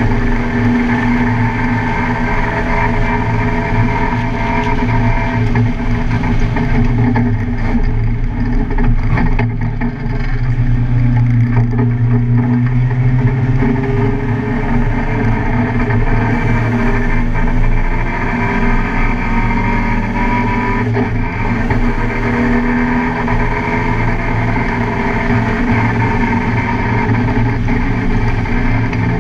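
Car engine running hard on a race track, its pitch climbing and falling repeatedly as the driver works the throttle and gears.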